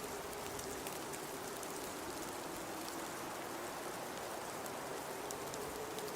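Steady blizzard wind: an even hiss with a faint, slightly wavering whistle held throughout, and sparse faint ticks over it.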